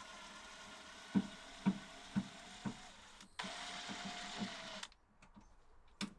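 A small electric motor running with a steady whine, with soft knocks about twice a second. It stops about three seconds in, runs again briefly and cuts off, followed by a few faint clicks.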